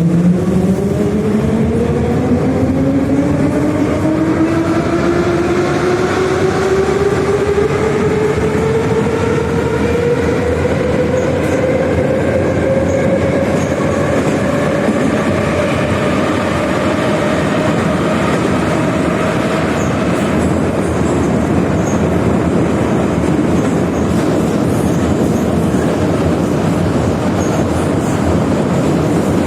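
Moscow Metro 81-717/714 'Nomernoy' subway train accelerating away from a station: the whine of its traction motors and gearing rises steadily in pitch for about fifteen seconds, then levels off at running speed. Underneath is the constant rumble and clatter of the wheels on the rails, heard from inside the carriage.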